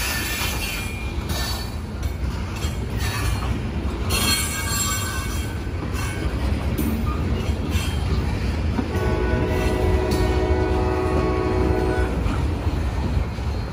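Freight train hopper cars rolling past on the rails: a steady low rumble with clicks and short squeals from the wheels. About nine seconds in, a multi-chime train horn sounds for about three seconds.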